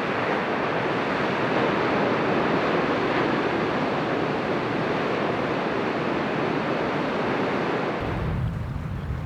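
Ocean surf washing steadily on the shore. About eight seconds in it cuts off suddenly and gives way to a low rumble.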